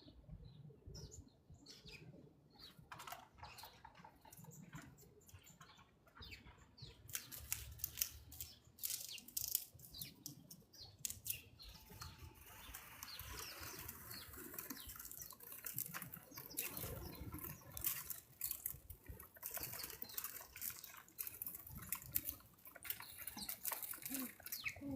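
Irregular rapid clicking and rustling from animals moving and feeding at a backyard feeder close to the microphone. The clicking gets busier after the first several seconds.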